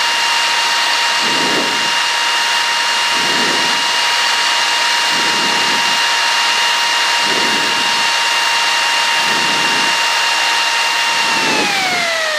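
Cessna 152's four-cylinder Lycoming O-235 engine and propeller running steadily, its pitch dropping about three-quarters of the way in as the power comes back.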